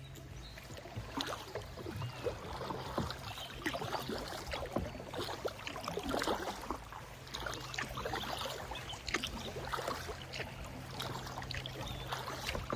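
Water splashing and dripping around a kayak on a river: irregular small splashes and drips, most likely from paddle strokes, over a steady low hum.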